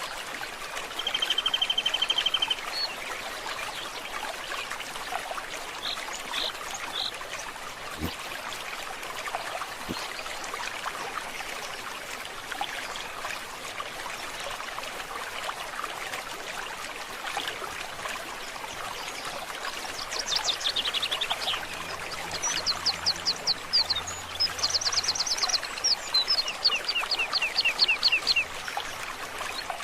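Steady trickle of a forest stream with birds singing over it: a short high trill about a second in, a few chirps, then a busy run of rapid trills and chirps in the last third.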